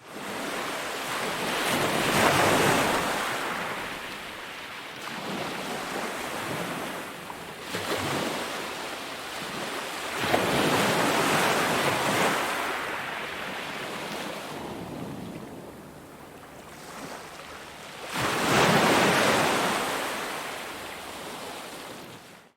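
Ocean waves breaking on a beach: three large swells crash about two seconds in, around ten seconds in and near the end, each washing back into a quieter hiss of surf, with wind on the microphone.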